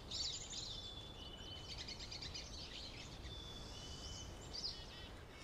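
Birds chirping and calling, with many short quick chirps and a few held whistled notes over faint outdoor ambience.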